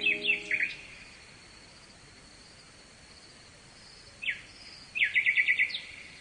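Songbird chirping: a few quick falling chirps at the start, a single chirp past the middle, and a rapid run of about six notes near the end. Underneath is a steady high insect chirring, like crickets.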